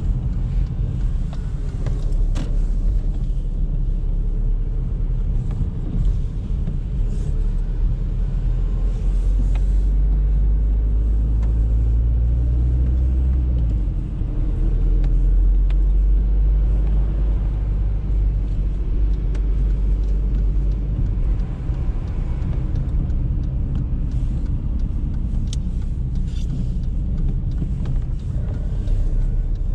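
Audi A3 on the move: a steady low rumble of engine and road noise.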